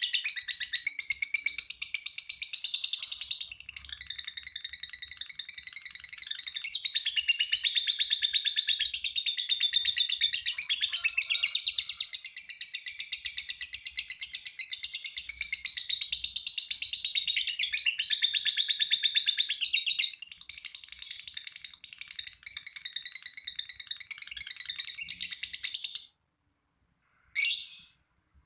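Lovebird ngekek: a long, unbroken run of fast, high-pitched chattering. It stops abruptly and is followed by two short calls near the end.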